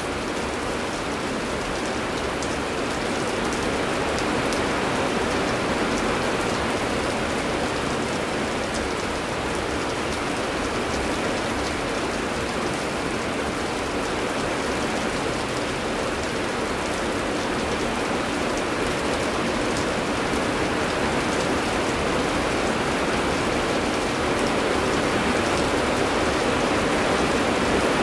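Heavy rain falling steadily: a dense, even hiss with faint sharp drop ticks scattered through it, slowly growing a little louder.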